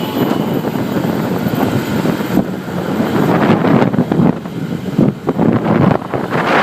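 Wind buffeting the microphone on a moving motorcycle, with the bike's running and road noise underneath. The rush swells and dips unevenly.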